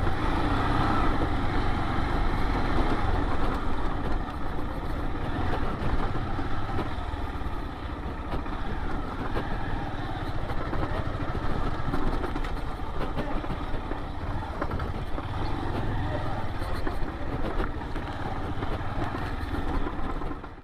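Yamaha XT 600E's single-cylinder four-stroke engine running steadily while the motorcycle is ridden slowly through town streets, heard from the rider's microphone.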